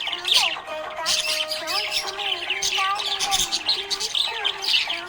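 Budgerigar chirping and warbling without a break, many quick chirps one after another.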